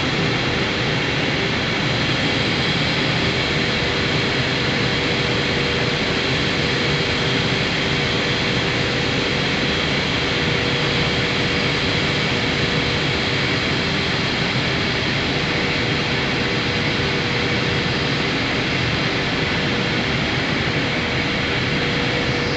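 Steady industrial drone of forging-shop machinery, even in level throughout, with two faint steady hum tones running through it.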